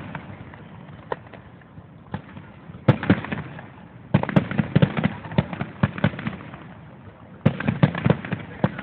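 Aerial fireworks display: clusters of rapid bangs and crackle with short lulls between them. After a couple of lone bangs, dense runs of bursts come about three seconds in, again around four to six seconds, and once more near the end.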